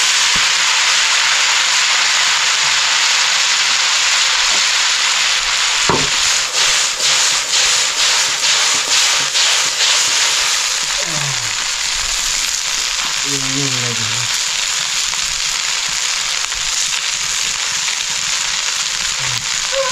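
Noodles frying in a wok of hot oil: a loud, steady sizzle, with a run of quick stirring strokes, about three a second, for a few seconds around the middle as a spatula tosses them.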